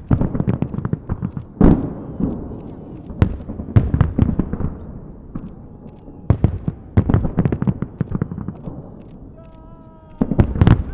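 Festive fireworks salute: shells bursting in quick volleys of sharp bangs with rolling, echoing rumble, easing off in short lulls between volleys.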